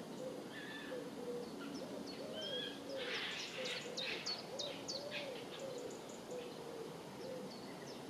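A pigeon cooing in repeated low, wavering phrases, with small songbirds chirping high above it.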